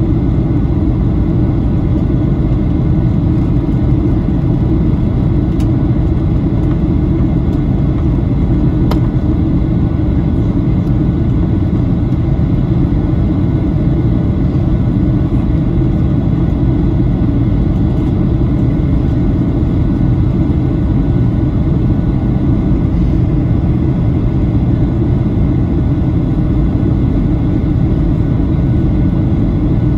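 Steady low roar inside the cabin of a Boeing 737-800 in flight: its jet engines and the airflow past the fuselage, with faint steady whines above the rumble.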